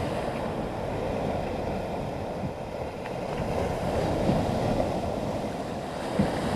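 Big breakers surging onto a sand beach: a steady wash of surf that slowly swells and eases, with wind buffeting the microphone.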